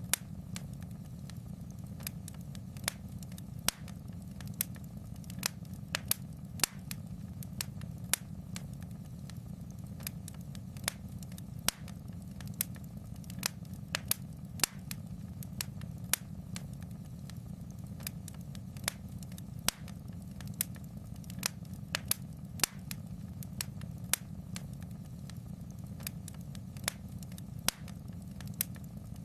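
Fire in a fireplace crackling: sharp, irregular pops and snaps, a few a second, over a steady low rumble.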